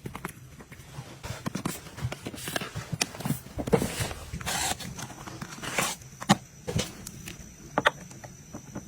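Household items being handled and set down by hand: an irregular string of light clicks and knocks, with a few short rustles of packaging.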